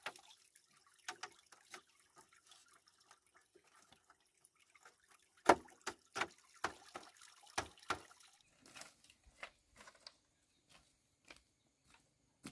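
Scattered, irregular sharp clicks and knocks, loudest and most frequent between about five and eight seconds in.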